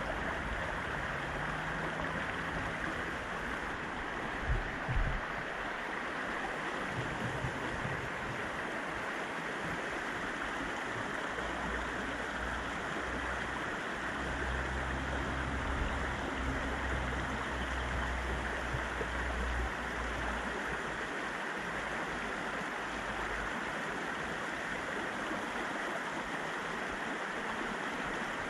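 Fast-flowing River Mbagathi in rainy-season spate rushing steadily, a dense even water noise, with a couple of low thumps about five seconds in and a stretch of low rumble midway.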